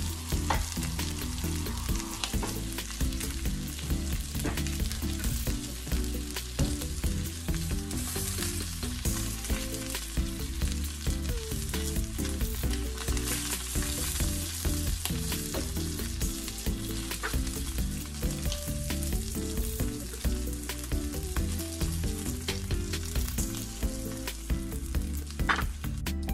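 Bacon-wrapped eggs sizzling in hot fat in a frying pan, with a steady hiss and scattered sharp clicks of metal tongs against the pan as the pieces are turned.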